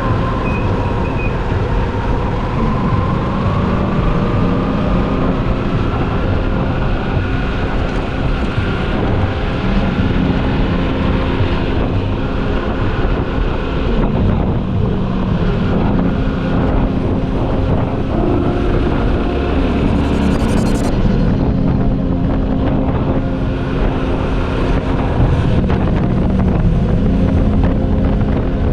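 Motorcycle engine under way, its pitch climbing as it accelerates and dropping sharply at each gear change several times, with wind rushing over the microphone.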